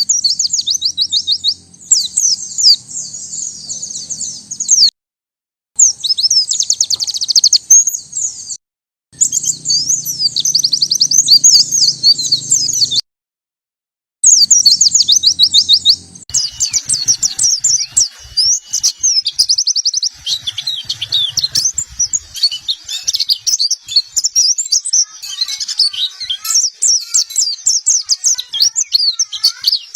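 Pleci (white-eye) song: rapid, high-pitched twittering phrases, broken by a few abrupt silences where the recording is cut. The song grows denser in the second half, with calls overlapping.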